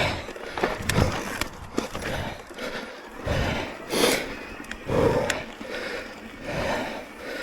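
A mountain biker breathing hard in repeated heavy breaths, about one a second, while the e-bike knocks and rattles over a rough trail.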